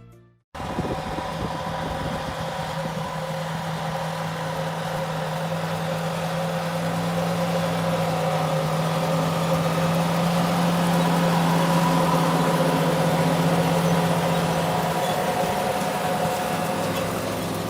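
Large farm tractor's engine running steadily, with a constant low hum and higher whine; it grows a little louder through the middle and eases slightly near the end.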